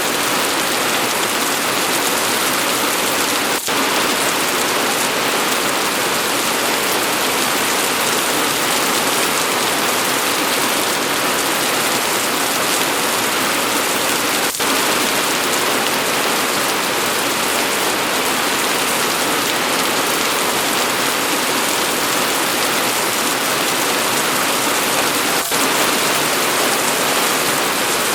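Steady rain falling, an even, continuous hiss of drops, broken only by three very short dropouts in the sound.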